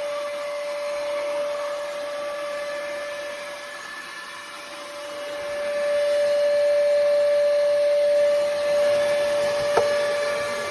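Ecovacs Deebot T80 Omni robot vacuum running: a steady motor whine over a suction hiss that fades a little and then grows louder about halfway through, with a single sharp click near the end.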